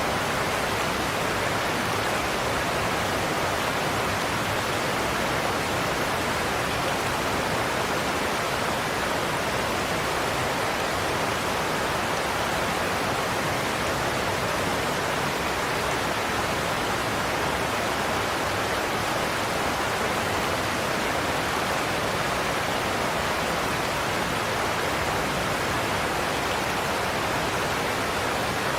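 Godafoss waterfall, a large volume of water pouring over cliffs in a steady, unbroken roar.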